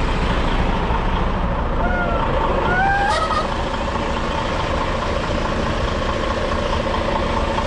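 Semi truck's diesel engine running steadily at low speed while the rig is maneuvered.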